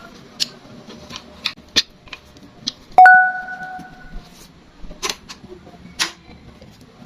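Metal clicks and taps from a motorcycle side stand spring being fitted, with one loud metallic clang about three seconds in that rings for about a second.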